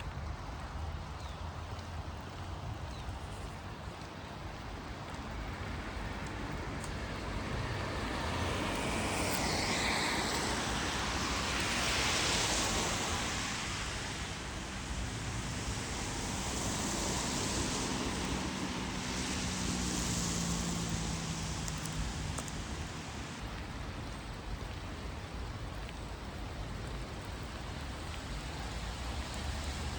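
Steady rain hiss with the tyre hiss and engine of a vehicle passing on a wet road, swelling through the middle and falling in pitch as it goes by.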